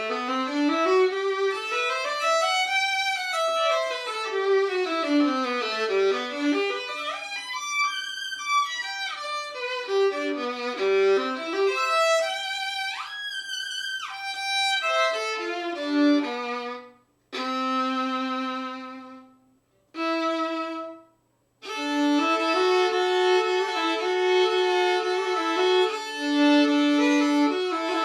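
Solo violin, freshly strung with steel strings, on a c.1890 Hopf-stamped fiddle with a double bass bar. It plays quick runs up and down the scale, a fast slide up high about halfway through and a few held low notes cut by two short breaks. Near the end several notes are held at once on more than one string.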